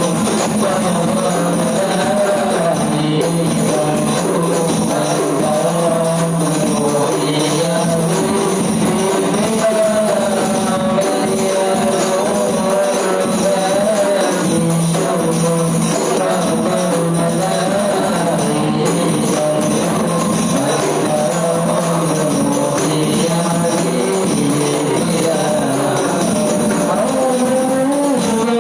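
Rebana frame drums played in a steady rhythm, with a group of voices singing over them.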